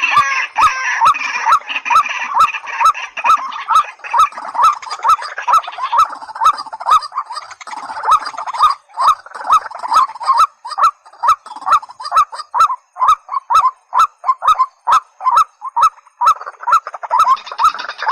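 Recorded calls of white-breasted waterhen and watercock: a long, even run of repeated calling notes, about two to three a second.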